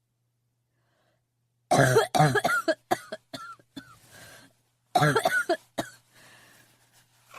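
A person coughing in two fits: a rapid run of coughs about two seconds in that tails off into smaller coughs, then a second run about five seconds in, each followed by quieter breathy sounds.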